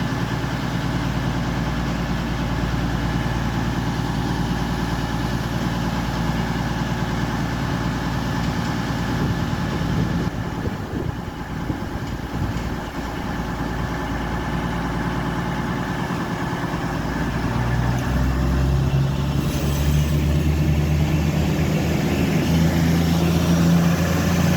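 Class 222 Meridian diesel multiple unit idling at the platform with a steady engine drone, its underfloor diesel engines opening up and growing louder over the last several seconds as it pulls away.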